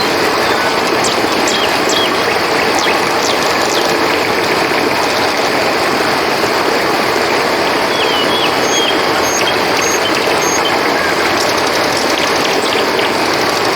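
Steady rushing of a river's flowing water, with a thin high insect drone of crickets above it. Scattered short high chirps come in twice: a few in the first few seconds and a quick run of them towards the middle.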